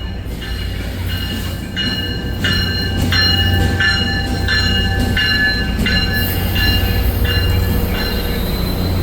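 Commuter train's bell ringing steadily, about one stroke every three-quarters of a second, starting about two seconds in, as the train readies to depart. A low, steady engine rumble runs underneath.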